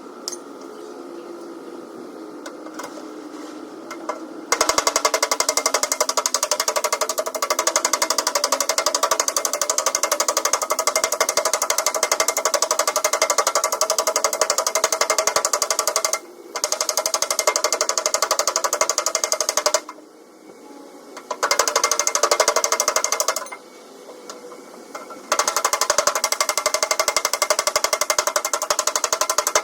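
A handheld power tool running in long runs with a fast, even hammering chatter. It starts about four seconds in and stops briefly three times.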